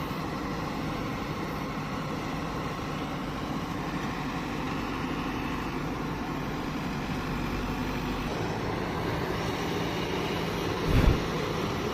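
Heavy diesel engine running steadily at a worksite, its note changing about eight seconds in, with one short loud thump near the end.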